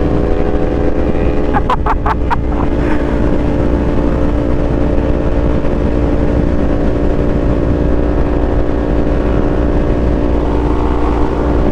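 Kawasaki Z400 motorcycle engine running at a steady cruise, heard from the rider's helmet, with low wind rumble beneath it. A brief wavering chirp sounds about two seconds in.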